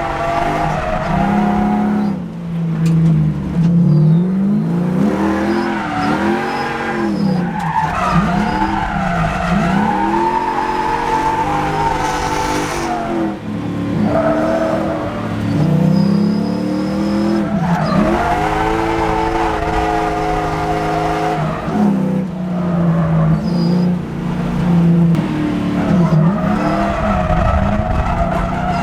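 The 4-litre 1UZ V8 of a Lexus IS300 drift car revving hard and falling back again and again under throttle, with tyres squealing in the slides.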